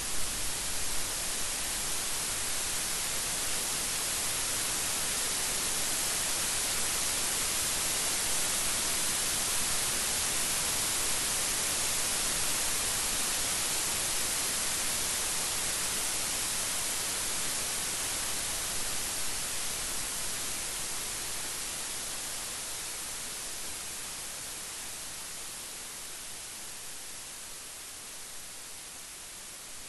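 Steady rain falling, an even hiss that builds slightly and then gradually softens over the last third.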